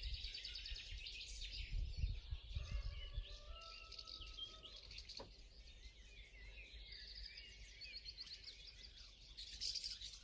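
Small songbirds chirping and singing, many quick overlapping calls, over a low rumble. The sound cuts off suddenly at the very end.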